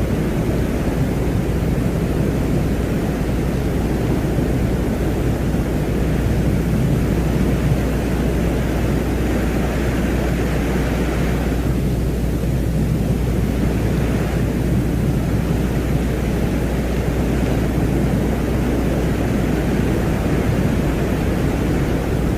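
Ambient space soundscape presented as the sound of Venus: a steady, deep, wind-like rumbling noise, with a couple of slow swells in the higher range about halfway through.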